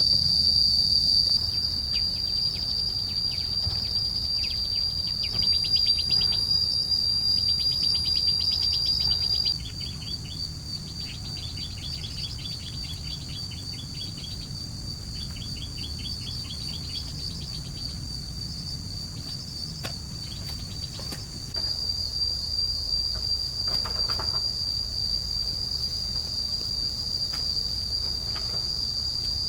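Forest insects keeping up a steady high-pitched drone, with trains of rapid chirps in the first half. The whole ambience gets quieter about a third of the way in and louder again about two-thirds of the way through.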